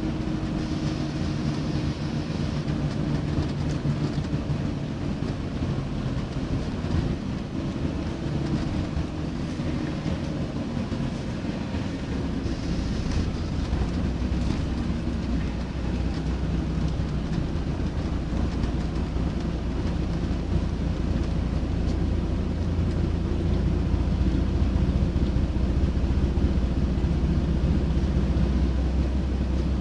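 Scania D9C diesel engine of a Scania K94UB bus running with a steady hum. Its low rumble grows stronger from about halfway through and is loudest near the end. There is a short hiss about a second in and another about twelve seconds in.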